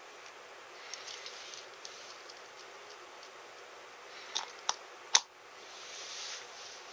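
Small clicks and rustling from parts of a figure being handled and fitted together. Three sharp clicks come close together a little after halfway, the last one the loudest, then a soft rustle.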